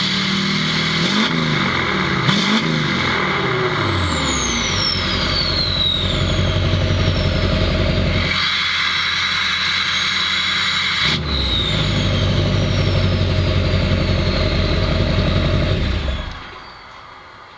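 Duramax 6.6 L V8 turbodiesel on a straight-pipe exhaust, blipped twice in quick succession near the start, then held at higher revs with a steady high turbo whistle over the engine. After each rev the whistle falls in pitch as the turbo spools down, and the engine sound cuts away sharply about sixteen seconds in.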